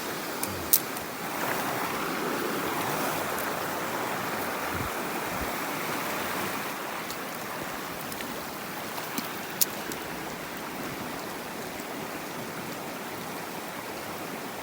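Mountain stream water rushing steadily, swelling slightly for a few seconds, with two sharp clicks: one just under a second in and one near ten seconds.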